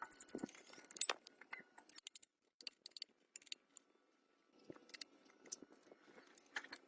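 Scattered light clicks and taps, with a louder knock about a second in and a near-silent stretch in the middle.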